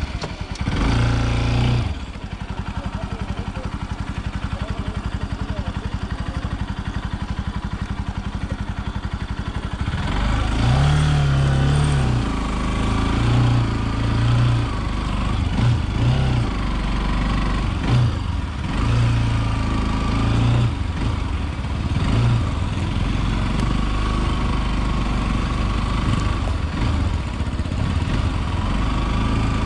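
Single-cylinder motorcycle engine idling steadily, then pulling away about ten seconds in and running with the revs rising and falling.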